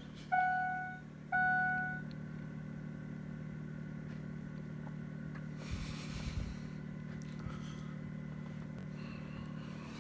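A Ford truck's dash warning chime dings twice in the first two seconds, each ding fading out, over a steady low hum. A brief rustle comes about six seconds in.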